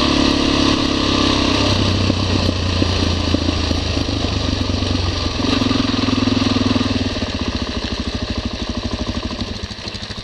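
Motorcycle engine running, its pitch shifting, then easing off about seven seconds in to a quieter, evenly pulsing idle.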